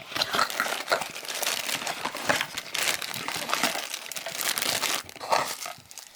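Plastic packaging crinkling and rustling as it is handled and opened, in a dense irregular run that eases off about five seconds in.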